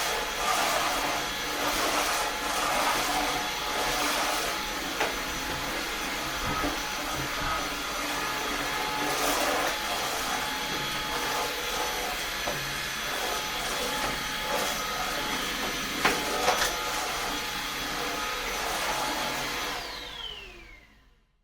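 Eufy HomeVac S11 cordless stick vacuum running steadily, with a few sharp clicks and knocks. Near the end it is switched off and the motor winds down with a falling whine.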